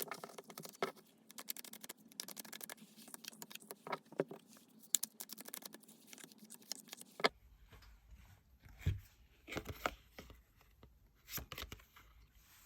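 Tarot cards being shuffled and handled: a rapid run of small clicks and rustles, then, after an abrupt change about seven seconds in, sparser taps and slides over a low rumble.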